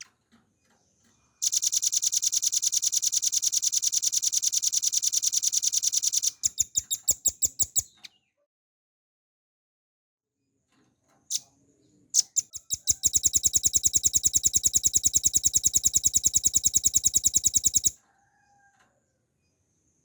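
Velvet-fronted nuthatch singing long, very fast, high trills: one for about five seconds, ending in a few slower notes, then after a pause a second trill of about five seconds.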